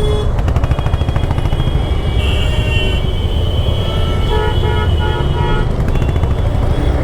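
Traffic in a jam: a steady low engine rumble from the motorcycle and the vehicles around it, with car horns honking, including a burst of short repeated honks about four seconds in.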